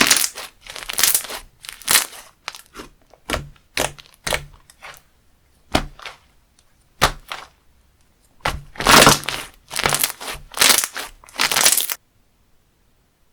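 Hands squeezing and pressing a crunchy textured slime, giving a run of irregular crackling crunches of varying length. The crunching stops abruptly near the end.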